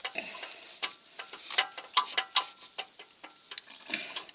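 Irregular metal clicks and clanks of an adjustable oil filter wrench gripping and turning a tight oil filter.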